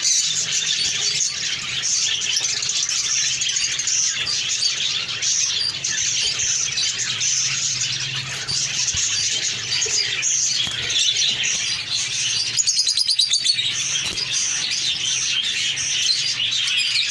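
A group of small pet parrots chirping and chattering continuously, with many overlapping calls. About thirteen seconds in, a louder rapid trill of roughly ten pulses a second.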